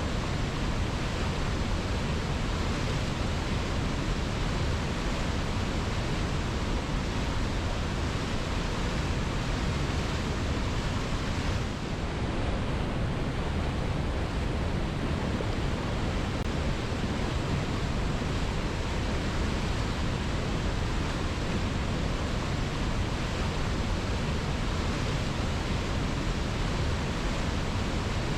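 Waterfall pouring steadily onto rocks, a constant rush of water with no pauses, dipping briefly about twelve seconds in.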